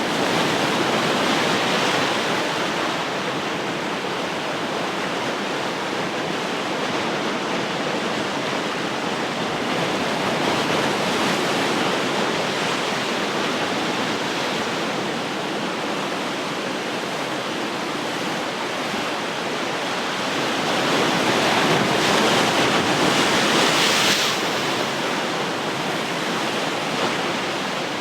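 Ocean surf: a continuous wash of breaking waves, swelling louder about a second in and again for a few seconds near the end before easing back.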